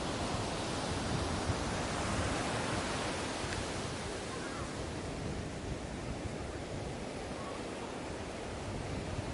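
Ocean waves breaking on a beach: a continuous wash of surf, a little louder in the first few seconds and easing off as a wave recedes.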